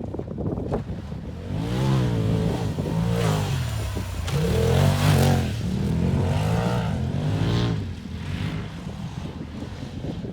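Polaris RZR side-by-side engine revving up and down in several surges as it is driven over the track, its pitch rising and falling repeatedly, then easing off about eight seconds in.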